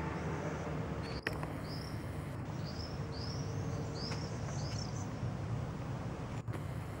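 A bird sings a run of short rising chirps, about seven in four seconds, over a steady low rumble.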